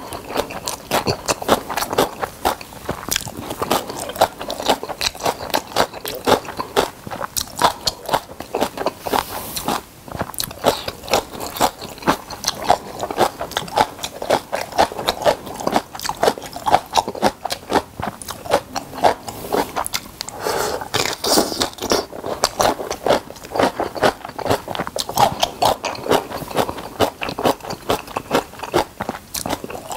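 Close-miked chewing of white rice and kimchi: steady, rapid wet chewing and crunching of cabbage kimchi, with mouth clicks and smacks.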